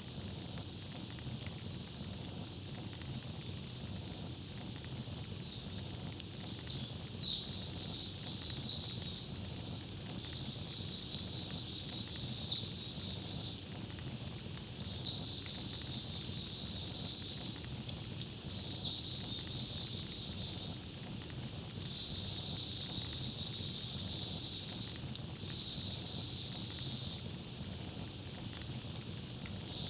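Campfire crackling with scattered small pops over a steady low rumble of flames, while a songbird repeats its song about six times, each phrase a quick falling whistle followed by a rapid high trill.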